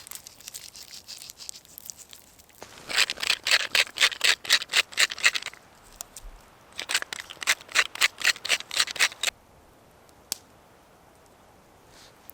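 A hand tool working wood in rapid, even scraping strokes, about five a second, in two bursts of roughly two and a half seconds each, with a single click after them.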